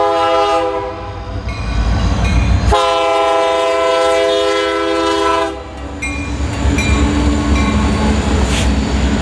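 Diesel freight locomotive's multi-chime air horn sounding two blasts, the second longer, over the low rumble of the locomotive and train. After the horn stops, the rumble of the passing train carries on.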